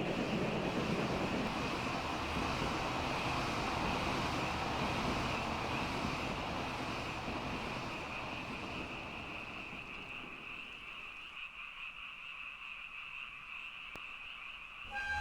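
Train running by, its noise fading away over about ten seconds, while a chorus of frogs calls steadily throughout.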